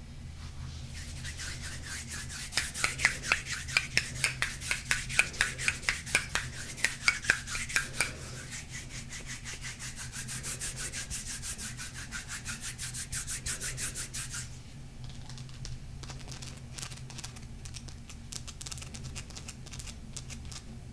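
Close-up ASMR tapping, scratching and rubbing on a golden crystal stone: quick, crisp taps at about three to four a second, loudest from a couple of seconds in, give way to steady rapid scratching, then to a few lighter, scattered taps near the end.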